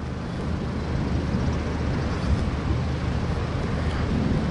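A vehicle's engine running with a steady low hum, under an even rushing noise.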